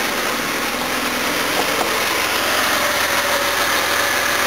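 Jaguar XJ6's newly fitted 4.2-litre straight-six engine running steadily just after starting, now that its timing and carburettor mixtures have been adjusted; it sounds heaps better than the old engine did.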